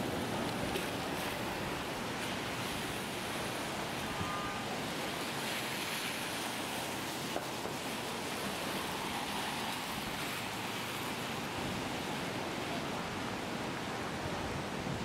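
Steady hiss of a rainy city street: falling rain and wet-road noise.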